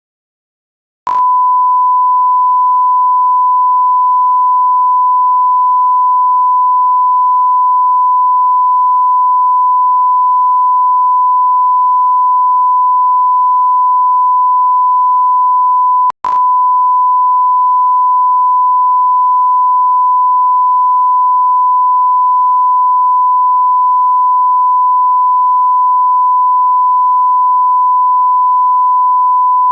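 A continuous electronic beep tone at one steady pitch, the sound of a censor bleep or test tone. It starts about a second in, breaks off for an instant with a click about halfway through, and carries straight on.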